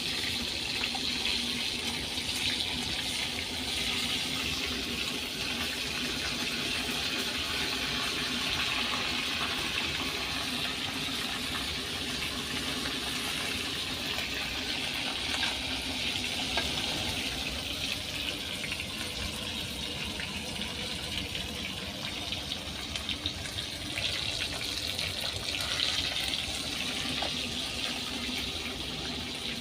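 Steady rushing water, running without a break.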